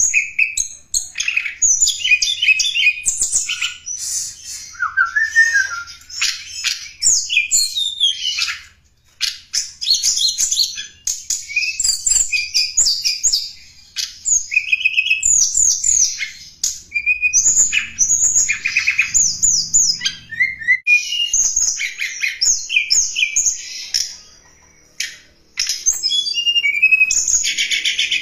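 Tledekan gunung song, played as a lure call: rapid high chirps, short trills and quick downslurred notes in busy phrases, with a couple of brief pauses.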